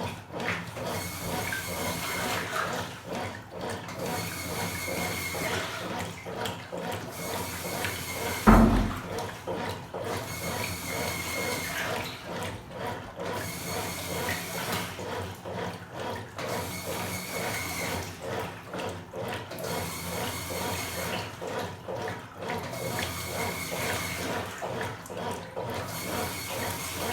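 Top-loading washing machine agitating a load on its high water level: water sloshing, with the agitator pausing and reversing about every three seconds. At this level the agitation is weak, with the clothes floating. A single low thump comes about eight and a half seconds in.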